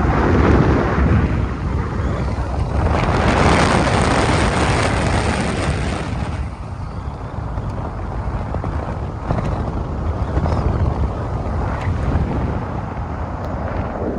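Car driving on a road: tyre and wind noise with a steady low rumble, swelling louder near the start and again from about three to six seconds in.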